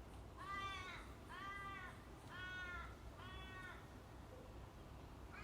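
A bird calling four times, about a second apart, each call a short faint note that rises and falls in pitch.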